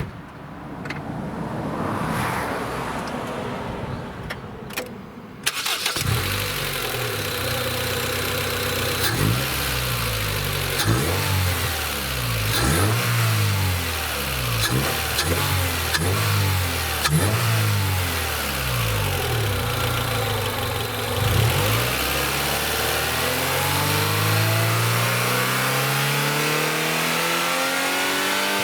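Honda Accord CL3's engine, breathing through a ZERO-1000 power-chamber intake and a Mugen sports exhaust, starts about five seconds in, then is blipped up and down in a quick series of short revs. Near the end the revs build more slowly and for longer.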